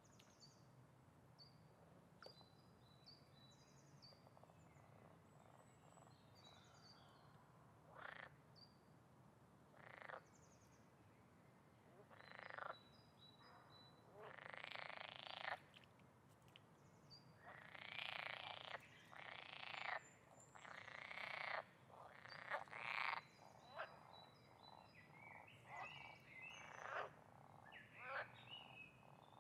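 Frogs croaking faintly: a run of calls that begins about eight seconds in and comes thicker and faster in the second half. Small high chirps are heard in the first few seconds.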